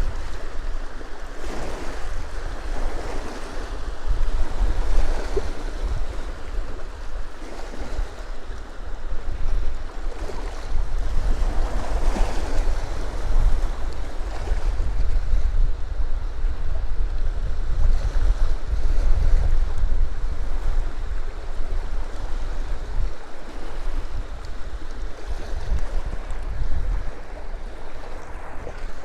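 Small waves on a freshwater loch washing onto the shore in uneven surges, with wind rumbling steadily on the microphone.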